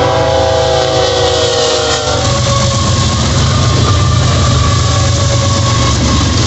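BNSF freight locomotive's multi-chime air horn sounding as the train reaches the crossing, its pitch dropping slightly as it passes and cutting off about two seconds in. Then the diesel locomotives rumble past, followed by the wheel and rail noise of double-stack container cars, with the grade crossing's electronic bell ringing underneath.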